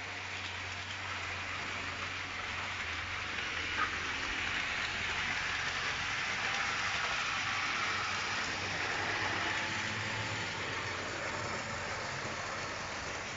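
OO-scale model class 60 locomotive and oil tank wagons running on the track: a steady rolling hiss of wheels on rail that grows louder toward the middle and fades again. A single click about four seconds in.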